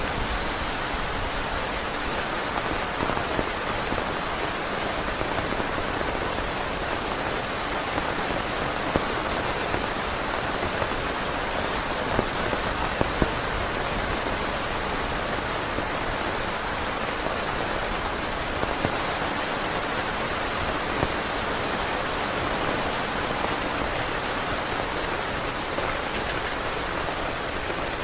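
Heavy rain falling steadily on a tent, with a few sharper drop hits standing out now and then.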